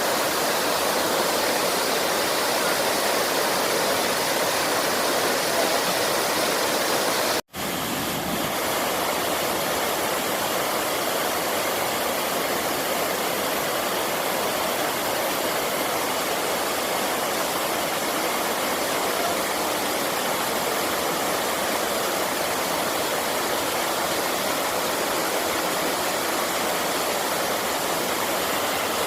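Waterfall: a steady, dense rush of falling water, cutting out for a split second about seven seconds in.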